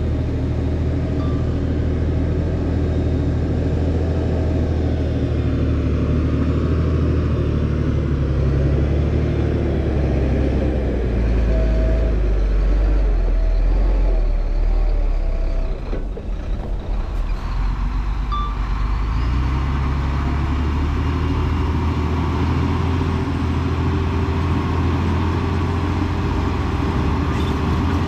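Heavy diesel engine of earthmoving equipment running steadily. It deepens and grows heavier from about ten to fifteen seconds in, falters briefly near sixteen seconds, then runs steadily again.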